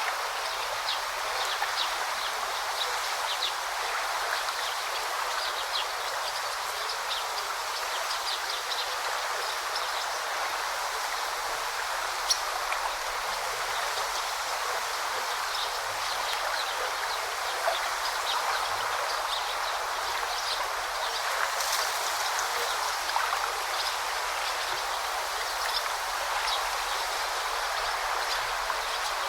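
Forest river babbling steadily over stones, with many short, high splashes and trickles, and birds chirping faintly.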